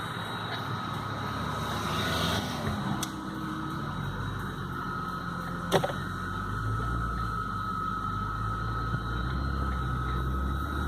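Car running, heard from inside the cabin: a steady low engine and road hum, with a single sharp click about six seconds in.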